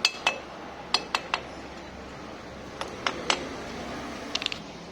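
Sharp metallic clinks and taps of tools and small scooter-engine parts being handled and set down, about ten separate strikes, with a quick cluster of three near the end.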